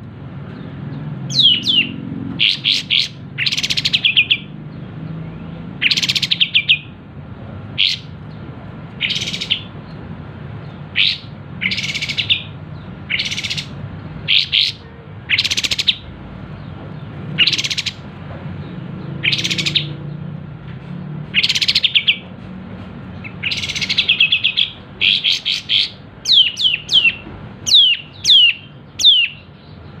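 A kapas tembak singing in loud, sharp bursts. It gives quick downward-swept chirps and short rattling trills, about one every second or two, with the calls coming faster near the end.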